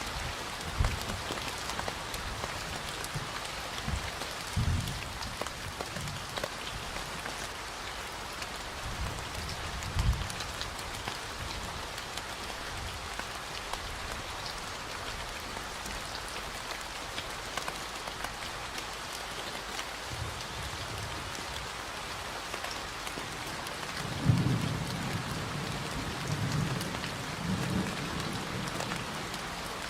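Steady rain falling in a forest, with low rolls of thunder now and then; the longest rumble comes near the end and lasts a few seconds.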